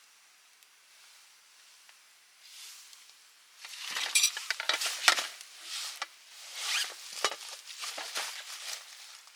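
Rustling and light clicking from gear being handled, a scattered run of short sounds starting about three and a half seconds in after a quiet start.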